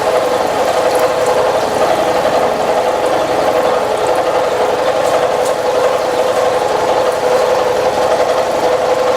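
Milling machine taking a roughly three-quarter-depth cut with a 5/8-inch two-flute high-speed-steel ball end mill under flood coolant. It makes a steady, even cutting hum with a fast regular rhythm from the cutter.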